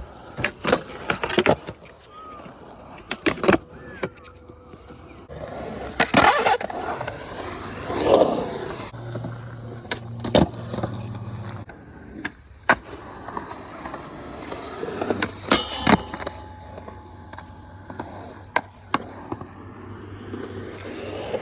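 Skateboard rolling on pavement, with irregular sharp cracks and clacks of the board popping and landing throughout.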